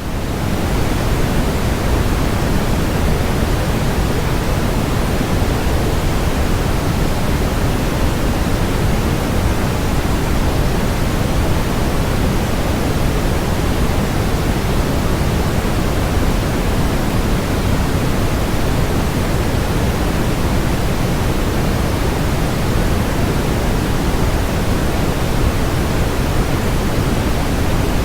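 Generated brown noise: a loud, steady, deep hiss with no pitch or rhythm, heaviest in the low end.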